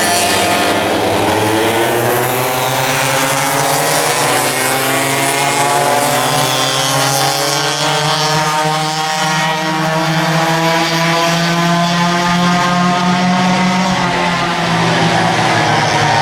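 Several racing kart engines running hard together, a pack of karts, with overlapping engine notes whose pitch drops and rises as they slow and accelerate.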